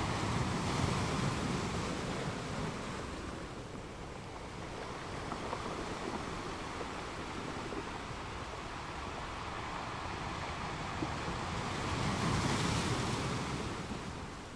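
Sea waves washing in, swelling twice, about a second in and again near the end, with a quieter lull between.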